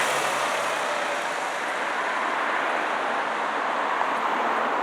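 Steady road traffic noise: motor vehicles running on a street, with no siren.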